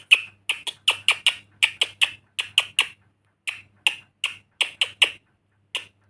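A rapid run of short, sharp clicks, about four or five a second, with a brief pause about three seconds in.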